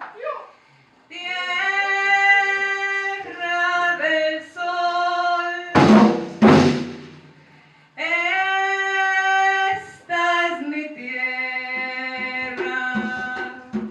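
Live cumbia group playing: long, steady held melody notes in phrases with short pauses between them, and two loud drum strokes about six seconds in.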